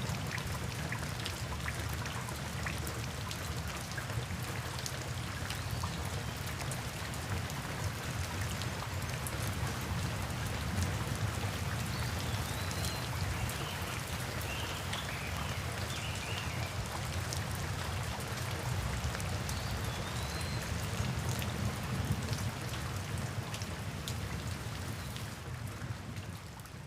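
Steady rain, with individual drops ticking close by over a low rumble. A few faint high chirps come through about halfway, and the rain fades out near the end.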